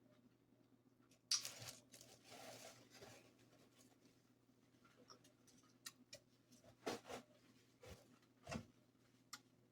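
Close-up eating sounds: chewing and handling of buttery seafood, with a crackly rustling spell about a second in and several sharp clicks and small crackles later.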